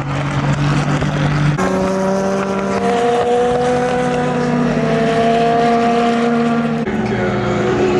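Endurance race car engines running at high revs, a steady note that jumps in pitch about a second and a half in and again near the end.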